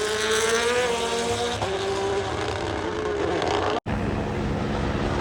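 Rally car engine running at high revs, its note rising slowly. The sound breaks off for an instant just before four seconds in, then a lower, steadier engine note follows.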